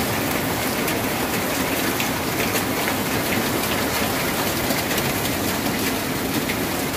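Steady heavy rain drumming on a corrugated tin roof, a constant hiss peppered with the sharp ticks of single drops.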